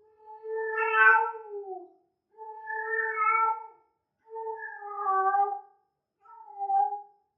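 Female cat in heat calling: four long, drawn-out yowling meows with short gaps between them. The first falls in pitch at its end, and the last is the shortest.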